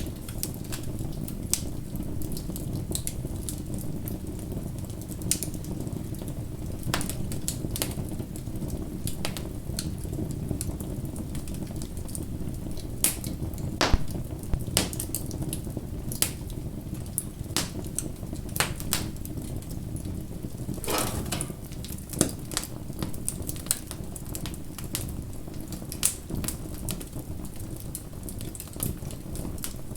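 Wood fire burning with a steady low rush of flame and irregular crackling pops, a few sharper louder snaps among them.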